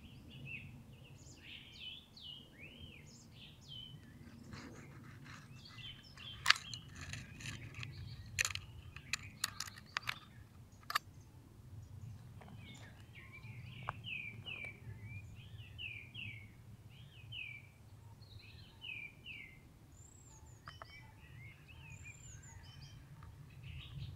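Small birds singing and chirping, faint, with a quick run of repeated chirps in the middle, over a low steady rumble. A cluster of sharp ticks comes in the first half, the loudest of them the single loudest sound.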